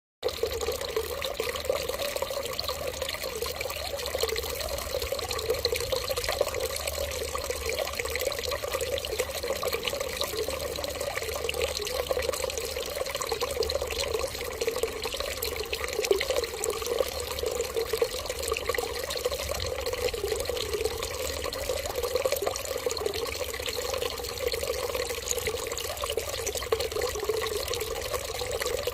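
Water running in a steady, unbroken trickle, like a stream from a tap.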